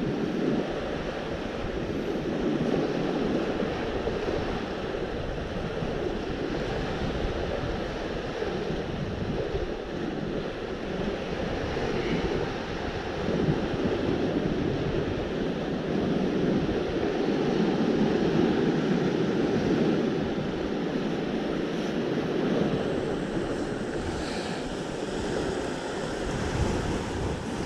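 Sea waves washing against the shore, in slow swells, with wind buffeting the microphone.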